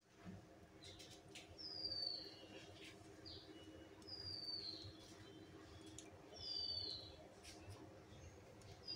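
A bird calling: a short whistled note that slides down in pitch, repeated four times at even intervals of about two and a half seconds, over a faint steady hum.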